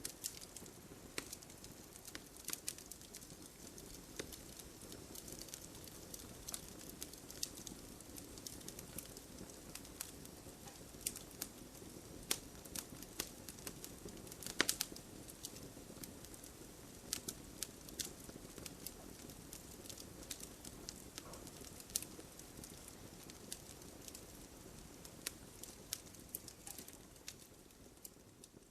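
Campfire crackling: a steady low rush of burning with frequent sharp pops and snaps, the loudest pop about halfway through.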